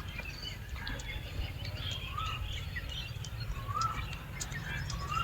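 Birds calling and chirping, one short call repeating about every one and a half seconds among scattered higher chirps, over a steady low rumble.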